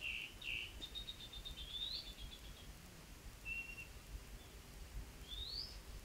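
Faint birdsong: upward-sweeping whistled notes, a quick run of rapid repeated notes about a second in, and a short flat note near the middle, over a low background rumble.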